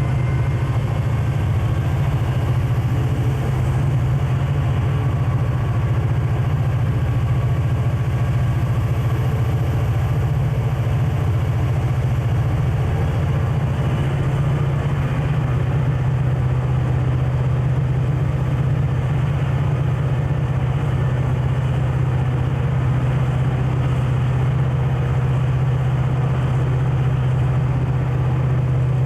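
Diesel locomotive engine running steadily: a loud, constant low drone with no let-up.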